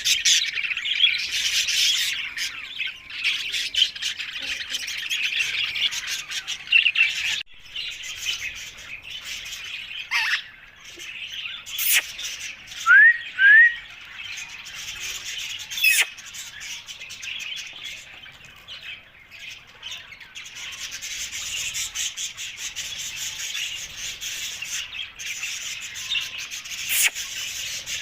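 Green Alexandrine parakeet chattering steadily, with several sharp squawks and a pair of short, loud, rising whistles about halfway through.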